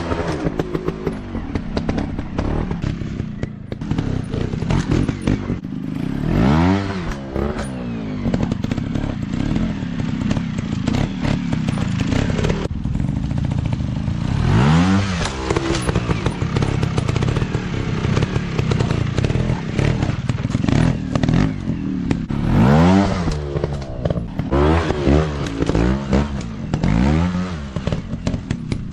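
Off-road dirt bike engines revving hard in repeated bursts, the pitch climbing sharply with each twist of the throttle and dropping back, about six times. Frequent sharp knocks and clatter run underneath.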